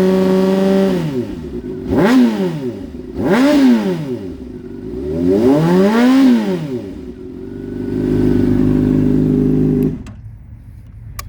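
2015 Honda CBR600's inline-four engine with a full Toce exhaust being revved while standing: a held rev that falls back, two quick sharp blips, a longer rev rising and falling, then a steadier held rev. The sound stops suddenly about ten seconds in.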